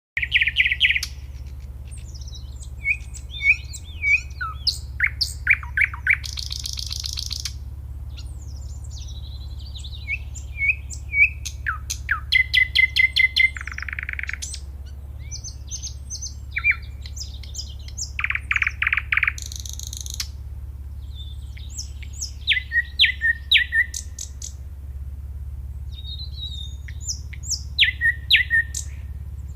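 A nightingale singing a varied song of whistles, buzzy notes and fast runs of repeated notes, in short phrases with brief pauses between them. A steady low hum lies underneath.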